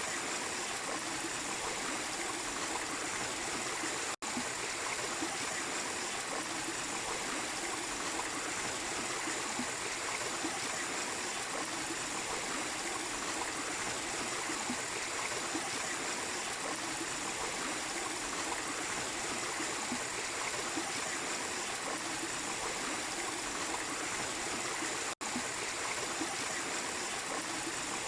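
Small waterfall splashing into a stream, water running steadily. The sound drops out for an instant twice, about four seconds in and near the end.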